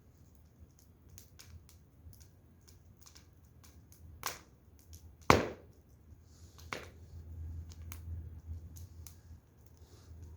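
Burning firewood crackling: scattered faint clicks and a few sharp pops, the loudest about five seconds in, over a low steady rumble.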